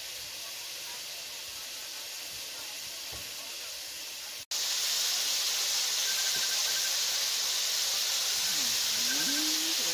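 Insects frying in hot oil in a metal wok: a steady sizzling hiss. It breaks off for an instant about halfway through, then comes back louder and brighter.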